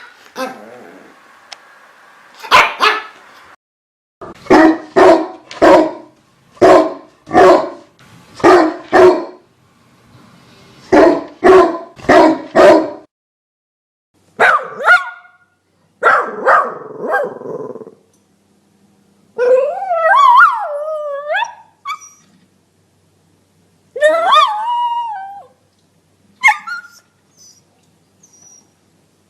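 Dog barking in a rapid series of short, evenly spaced barks, then howling and whining with a wavering pitch, and a few short yips near the end.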